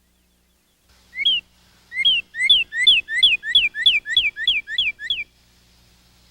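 A songbird singing a clear whistled song: a single note, then a quick run of about ten repeated two-part whistles, each a short rising note followed by a higher note sliding down, about three a second.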